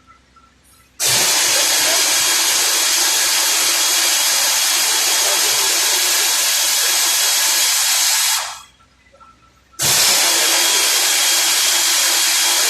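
A power tool runs with a loud, even hissing noise in two long runs: it starts suddenly about a second in, runs for about seven seconds, dies away, then starts again near the end.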